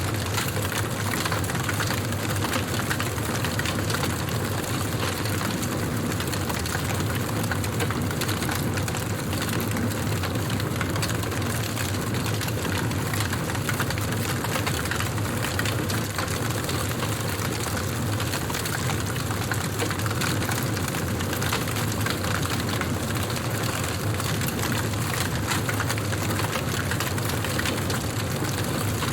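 Campfire burning: dense, continuous crackling over a steady low rumble.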